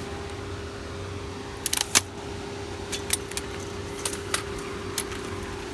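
Truck cab interior with a steady engine and road hum, with a window down. Several short sharp clicks and rattles break in, a quick cluster about two seconds in and single ones after.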